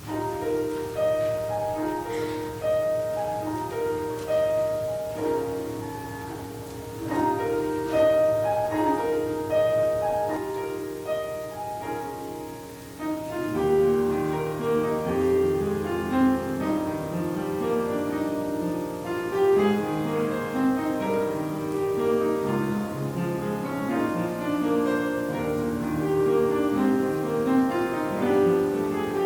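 Offertory music played on piano: a slow melody over held chords, growing fuller with lower notes entering about halfway through.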